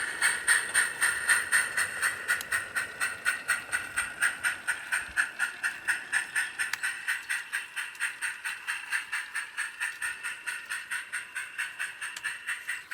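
Scratch-built 7/8-inch scale live steam locomotive chuffing through a Summerlands Chuffer exhaust fitting, an even beat of about four to five chuffs a second that slowly grows fainter.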